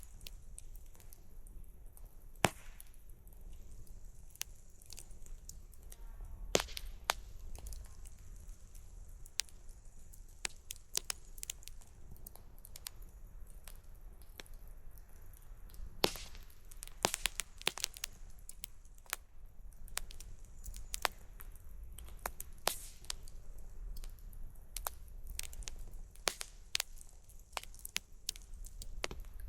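Wood campfire crackling: irregular sharp pops and snaps from the burning wood, the loudest about two seconds in and again around sixteen seconds, over a faint low rumble.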